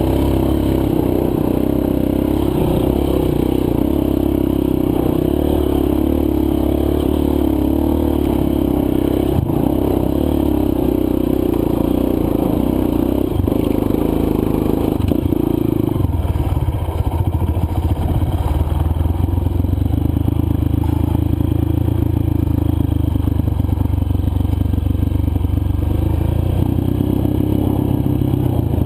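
A single-cylinder four-stroke dirt bike engine running under way on a trail. Its pitch drops about halfway through and then holds lower, over steady rattling and scraping from the ride.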